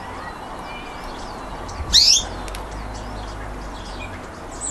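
Pet birds calling: one loud, sharp call about two seconds in, over faint chirping and twittering.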